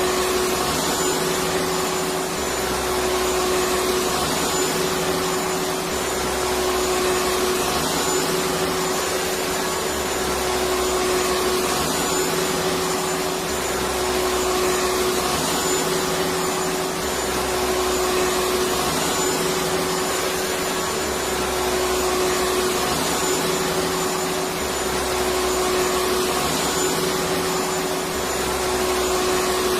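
Vacuum cleaner running continuously: a steady motor hum over an even rushing hiss, with a faint low pulse repeating every three to four seconds.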